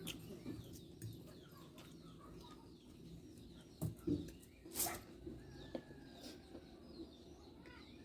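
Small birds chirping in the background, many short quick calls. Two or three sharp clicks stand out about four to five seconds in.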